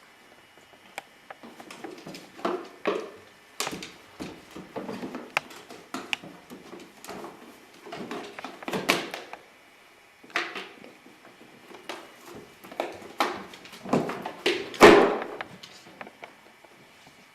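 A dog tearing at a cardboard shoe box to get at treats inside: irregular scraping and ripping of cardboard and short knocks of the box, the loudest about three-quarters of the way through.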